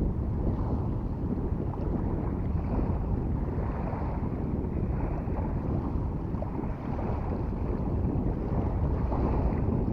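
Strong wind buffeting the microphone: a steady, heavy low rumble of gusty wind noise.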